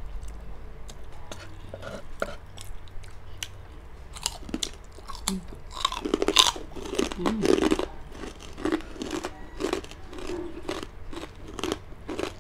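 Crispy pork chicharon bagnet being bitten and chewed close up by two people: a steady run of sharp crunches, densest and loudest for a couple of seconds around the middle.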